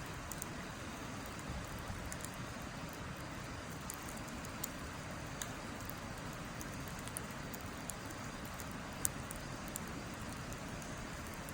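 Wood fire in a fire pit crackling, with irregular sharp pops, the loudest about nine seconds in, over a steady rushing hiss.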